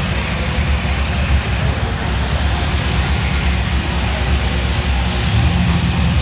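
Vehicle engine running steadily: a constant low rumble with an even hiss of motion noise over it.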